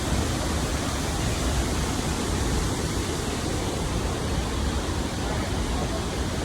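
Rushing river water: a steady, even rush of fast-flowing water.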